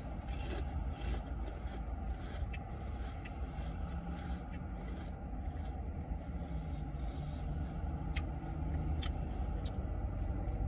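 Pringles potato crisps being chewed with the mouth closed: irregular crisp crunches, some sharp, over a steady low hum.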